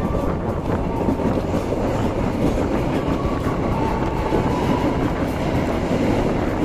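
Passenger train running at speed, heard from on board a coach: a steady rumble of wheels on the rails with some clickety-clack.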